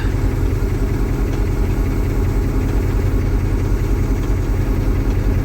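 Water truck's engine idling steadily.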